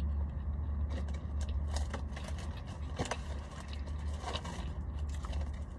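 Someone eating fried chicken strips: scattered small clicks and crunches of chewing and handling food, over a steady low hum inside a car.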